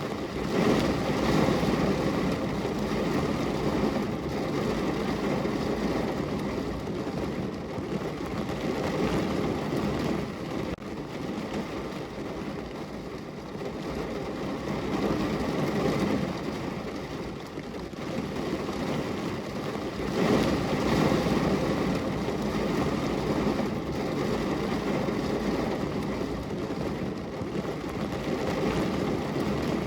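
Heavy rain drumming on a car's roof and body, heard from inside the car, a dense steady patter that swells louder and eases back every few seconds.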